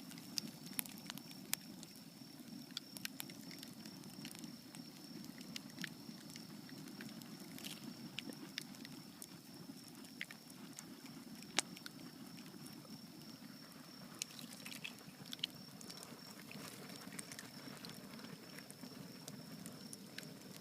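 Wood bonfire crackling, with irregular sharp pops, the loudest about halfway through, over a steady low rush.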